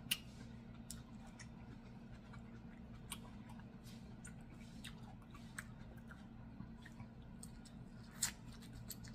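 A person eating grilled steak close to the microphone: quiet chewing with scattered short wet mouth clicks and smacks, and a sharper click from a bite near the end.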